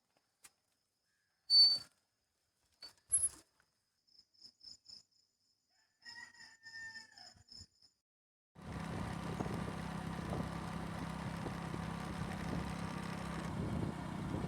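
Morning village sounds: short, sharp bird chirps and a rooster crowing about six seconds in. About two-thirds of the way through, a motorbike engine starts to run steadily under a constant rush of noise and carries on to the end.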